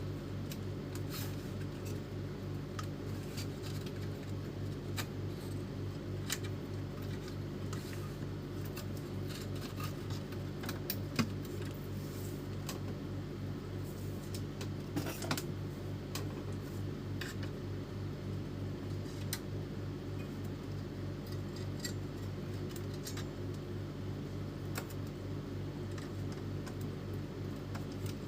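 A steady low hum throughout, with scattered light clicks and small metallic clinks, like small parts and tools being handled.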